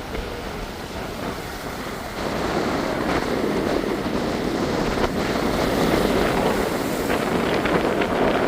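Ocean waves surging and breaking, the wash swelling about two seconds in and falling away near the end, with wind buffeting the microphone.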